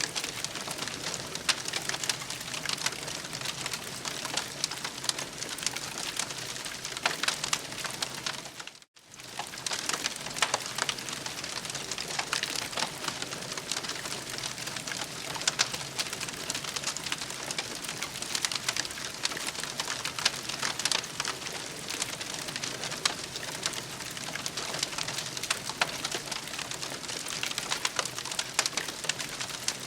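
Campfire crackling and popping steadily, dense little snaps over a soft hiss. The sound cuts out for a moment about nine seconds in, then carries on.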